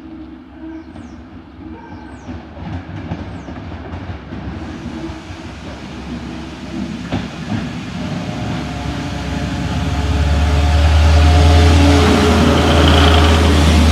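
Class 73 locomotive approaching under its own diesel engine, the engine growing steadily louder until it settles into a loud, steady low drone about ten seconds in, with wheels clicking over the rail joints.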